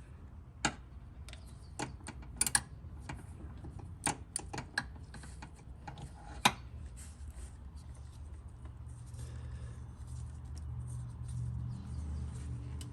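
Scattered light metallic clicks and taps of a spark-plug socket and extension as a spark plug is threaded in by hand, about a dozen in the first half, the loudest about six and a half seconds in. A low steady hum comes up in the second half.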